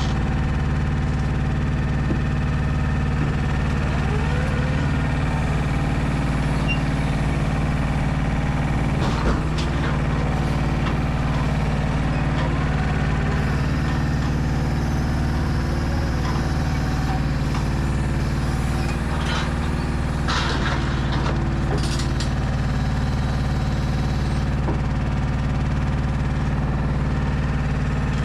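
Mercedes Actros L truck's straight-six diesel engine running steadily at a constant speed, with a few short knocks and hisses, the loudest about nine seconds in.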